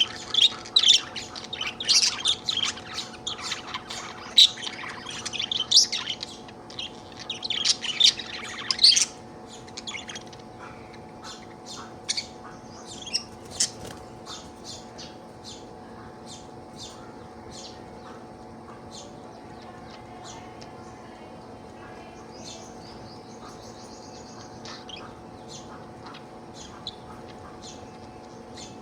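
Budgerigar chattering and warbling, a dense run of rapid chirps for about the first nine seconds, then thinning to scattered short chirps with a brief warble later on.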